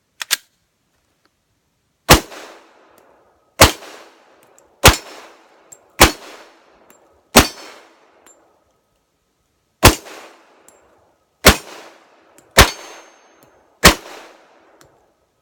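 Glock 21 Gen 4 .45 ACP pistol fired nine times at an uneven pace, about one shot every one to two and a half seconds, each shot followed by the ring of a struck steel target.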